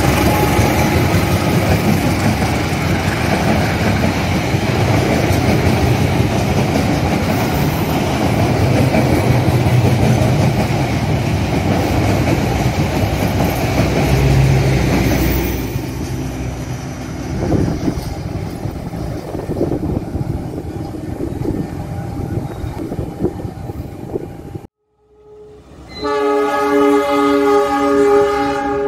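A passenger train passes close by behind a CC201 diesel-electric locomotive: a heavy rumble of engine and wheels on rail that fades away over about fifteen seconds. After a brief silence, a diesel locomotive's multi-tone air horn sounds in several short blasts near the end.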